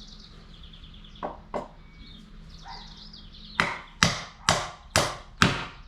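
Hammer driving a nail into wood: two light taps to set the nail, then five hard blows at about two a second.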